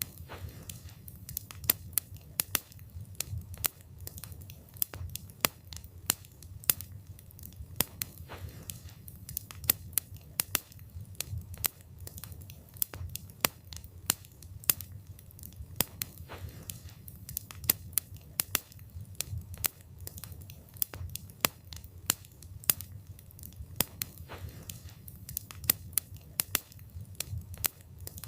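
Wood fire burning, with frequent irregular sharp crackles and pops over a low steady rumble of the flames.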